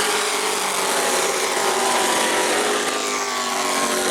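Several stock-car-style race trucks' engines running at high revs on the oval, a steady mix of engine notes that sag slightly in pitch about three seconds in.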